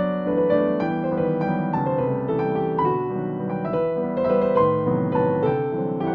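Background piano music: a gentle melody of many notes played steadily over sustained chords.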